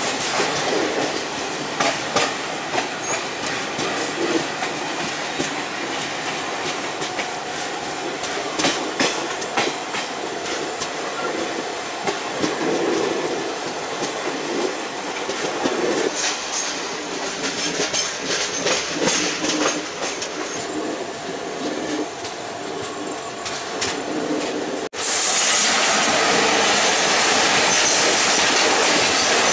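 Ride noise of a moving Indian Railways passenger train heard from on board: a steady rumble with irregular clicks and clatter of the wheels over rail joints. About 25 seconds in, after an abrupt cut, a louder, steady rushing noise as a line of goods wagons passes close alongside.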